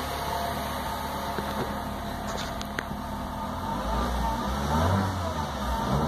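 Freshly rebuilt VW EA111 1.0 four-cylinder petrol engine running rough on its first start at around 1,300 rpm, still giving occasional little pops ("tirinhos"), a misfire the mechanic had suspected came from crossed ignition leads. Engine speed and loudness rise unevenly from about four seconds in.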